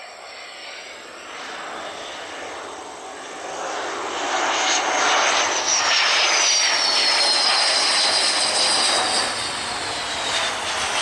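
An airliner's engines pass by, swelling to full loudness about four seconds in. Their high whine falls steadily in pitch as the aircraft goes past, then the sound begins to fade.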